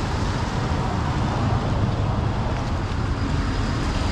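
Steady road traffic noise from vehicles on a town street, with wind rumbling on the microphone.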